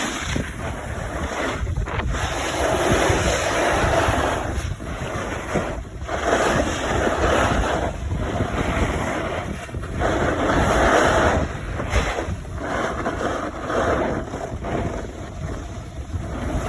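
Wind buffeting the microphone while moving quickly downhill, a rushing noise that swells and dips every second or two.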